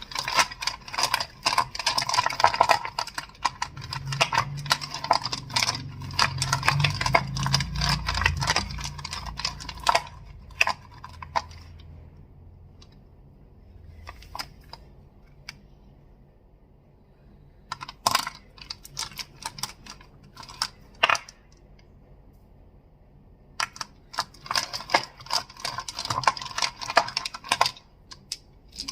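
Crystals clicking and clacking against each other in rapid, dense runs: a long run at the start with a low rumble under it, a quiet stretch, a few separate clicks, then another dense run near the end.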